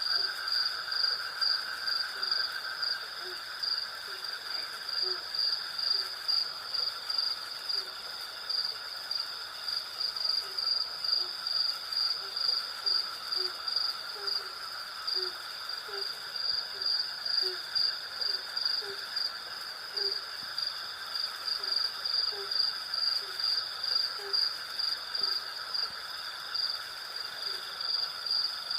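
Night insect chorus of crickets and cicadas: a high, fast, evenly pulsing chirp over steadier lower trills. Short low notes repeat about once or twice a second throughout.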